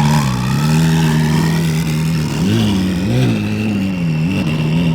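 Twin-turbo Ferrari 458's V8 engine running at low speed, its pitch swinging up and down a few times in light blips of the throttle, with a high whine that rises over the first couple of seconds and then holds steady.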